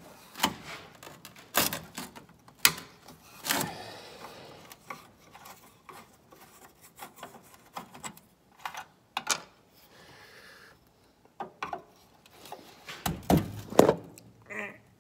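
Irregular clicks, scrapes and knocks of hand tools working at a small rusted sheet-metal screw that won't come loose, with a louder cluster of knocks near the end.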